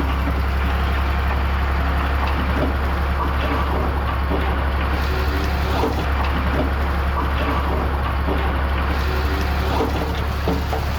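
Diesel engine of a Komatsu D20A bulldozer running steadily, with a strong low hum.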